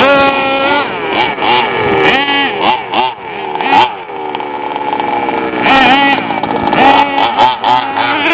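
Small nitro-powered RC truck engine, high-pitched, revving up and down repeatedly as the truck is driven, its pitch rising, dropping and holding in turn.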